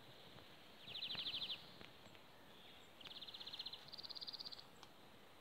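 A small songbird singing short, rapid, even trills of about fifteen notes a second, well under a second each: one about a second in, then two back to back from about three seconds in, the second stepping up in pitch.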